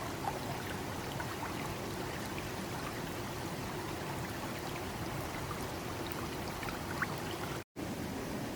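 Steady rush of flowing water, with scattered faint ticks; the sound drops out completely for an instant near the end.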